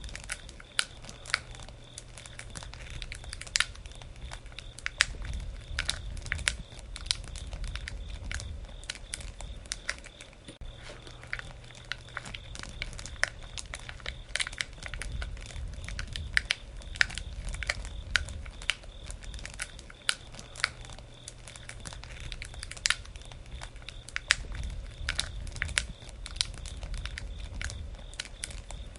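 Wood fire crackling, with irregular sharp pops and snaps from the burning wood over a low steady rumble of flames.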